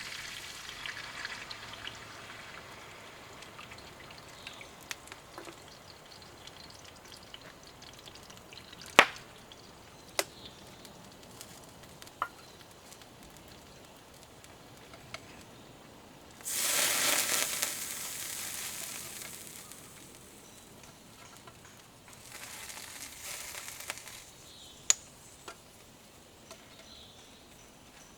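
Food frying in a pan: a low, steady sizzle with a few sharp clicks. The sizzle swells louder for about three seconds past the middle and again, more weakly, a few seconds later.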